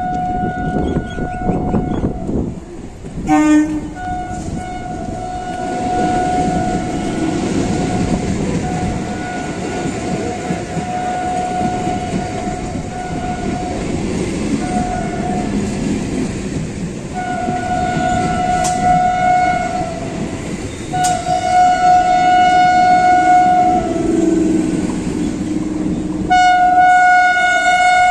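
Electric train horns sounding in a string of long, steady blasts over the rumble and wheel clatter of an EMU local train passing close by. Near the end comes a louder, brighter blast as an Indian Railways electric locomotive hauling a passenger train approaches.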